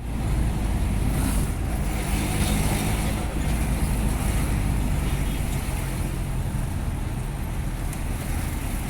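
Truck engine running steadily, a continuous low hum.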